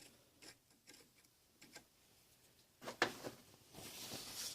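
Faint scattered clicks and ticks of small metal parts being handled, with a sharper click about three seconds in followed by a light rustle, as a small threaded part is daubed with thread locker and threaded in by hand.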